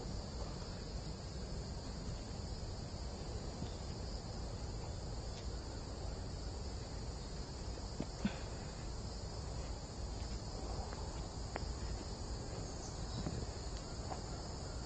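Steady, high-pitched chorus of insects in a summer forest, with a couple of faint knocks near the middle.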